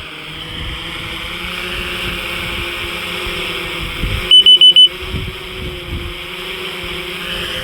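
Four quick, loud, high electronic beeps about halfway through, over steady wind noise and a faint steady hum.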